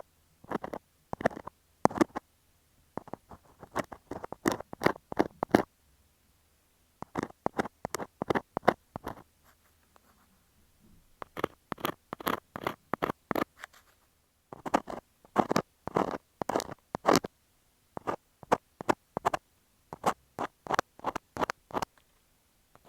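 Close-up scratching of an ear scaler on an earphone microphone: rapid little strokes in runs of a second or two, with short pauses, the longest about a third of the way in and around the middle.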